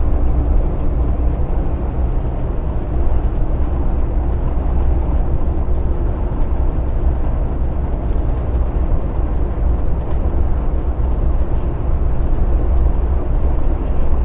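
Truck cab interior while driving: the steady low rumble of the diesel engine and road noise, with no changes in pace.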